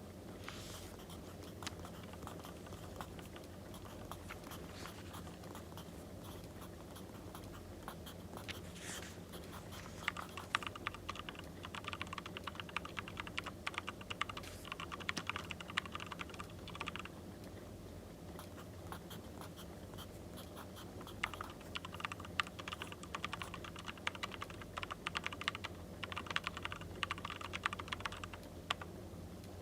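Handwriting on paper: dense scratchy strokes in two long runs, one starting about a third of the way in and one after a short pause, over a steady low background hum.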